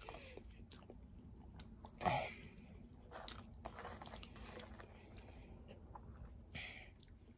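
A person chewing food with small mouth clicks throughout. One louder bite or crunch comes about two seconds in.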